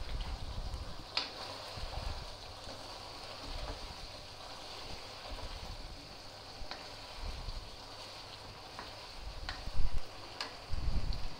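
Chicken pieces in yogurt sauce sizzling in a non-stick karahi while being stirred with a plastic spoon, with a few light clicks of the spoon against the pan. A dull bump near the end is the loudest moment.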